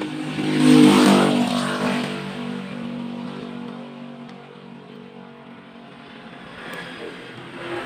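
Small electric motor running with a pitched hum, loudest about a second in and then easing off.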